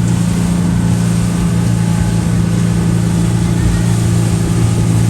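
Speedboat engine running steadily at speed: a constant low drone over a steady rushing hiss.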